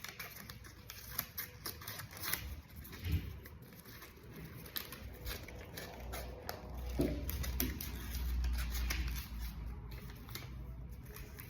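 Scissors snipping through paper, an irregular run of small sharp clicks with paper rustling, and a low rumble around the middle.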